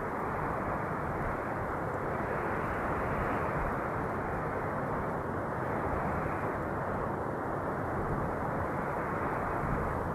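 Wind noise: a steady, dull rushing with gentle swells every few seconds.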